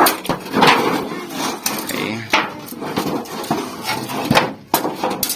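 Hammer blows on thin sheet steel from a scrapped refrigerator, a series of sharp, unevenly spaced strikes as the metal is worked into a round pot shape. Voices are heard in the background.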